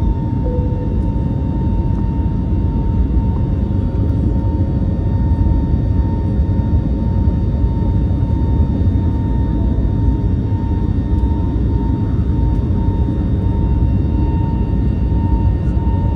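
Cabin noise inside an Airbus A321neo shortly after take-off: a steady deep rush of jet engine and airflow noise with a faint constant whine on top.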